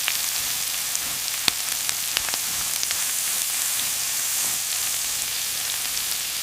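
Steady hissing noise with scattered sharp crackles and clicks, like spray or sizzling.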